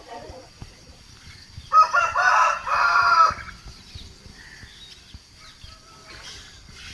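A rooster crowing once, a call of about a second and a half starting roughly two seconds in.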